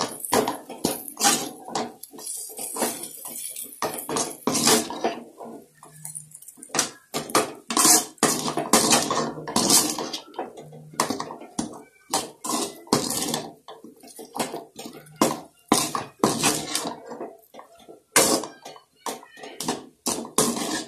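A spoon repeatedly scraping and knocking against a kadai (Indian wok) while stirring a thick potato masala, in short strokes at an irregular pace.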